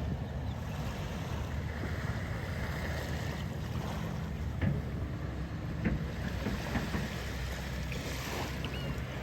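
Shore waves washing in, with wind rumbling on the microphone and a couple of brief knocks about halfway through.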